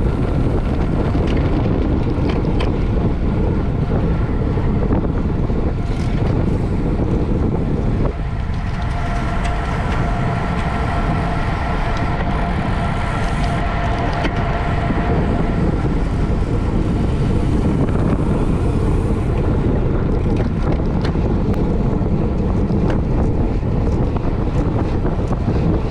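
Wind buffeting the microphone of a moving bicycle at racing speed, over a steady road and tyre rumble. A faint steady whine comes in about a third of the way through and fades out about three quarters of the way through.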